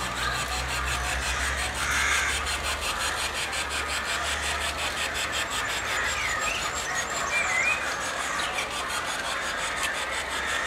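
Garden birds chirping in short calls, over a fast, even ticking and a low hum that fades out about four seconds in.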